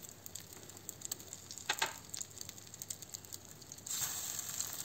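Egg-dipped potato-and-chicken patties frying in hot oil in a frying pan, a steady crackling sizzle with scattered light ticks. About four seconds in the sizzle grows louder as a second patty is laid into the oil.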